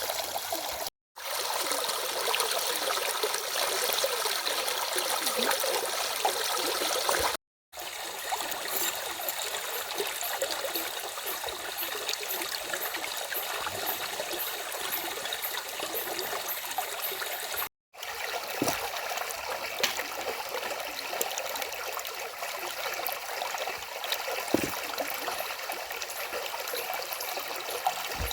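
A stream running steadily, a continuous rush and trickle of water. The sound cuts out completely for a split second three times.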